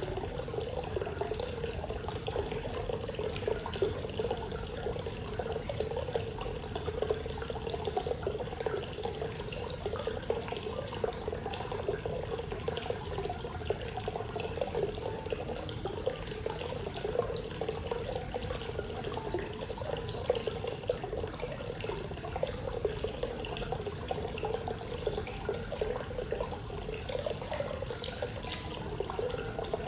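Hot-spring water pouring steadily into a bath, a continuous even splashing.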